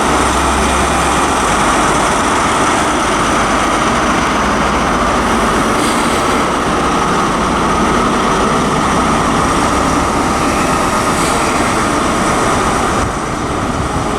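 ScotRail High Speed Train arriving, its rear Class 43 diesel power car running steadily as it passes. The train noise is loud and even, easing slightly near the end.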